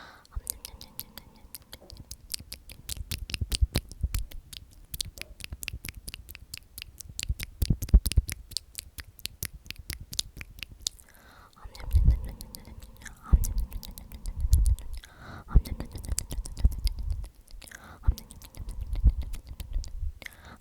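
Close-miked whispering of the word 'omnomnom' repeated over and over, with many quick wet mouth clicks between the syllables. The clicks come thick and fast through the first half; the whispered syllables grow fuller and more frequent in the second half.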